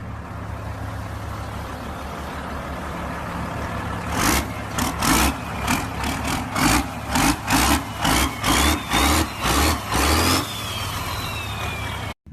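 Old truck engine idling roughly, then revved in a quick string of short blips, about one and a half a second, with a whine that climbs in pitch through the blips and falls away after them. The sound cuts off abruptly near the end.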